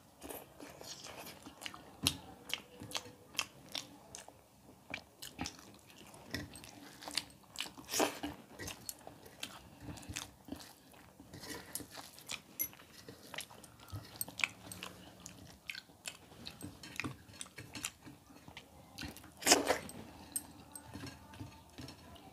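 Close-miked eating sounds: a person chewing mouthfuls of food with wet smacks and short crunchy clicks, with a louder crunch near the end.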